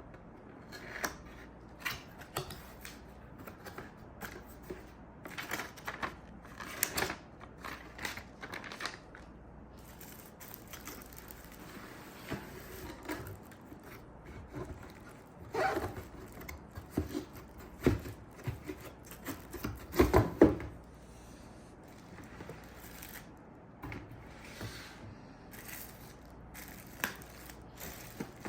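Cardboard and plastic packaging being handled and opened by hand: scattered rustling, crinkling and tearing with small knocks, loudest about two-thirds of the way through.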